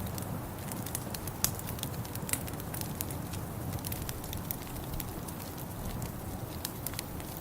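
Wood fire crackling in a fireplace: irregular sharp pops and snaps over a steady low rumble, with one louder pop about one and a half seconds in.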